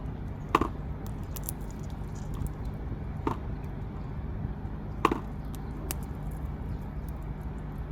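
Three sharp wooden knocks with small clicks between them, typical of a squirrel working at a wooden feeder, over a steady low hum.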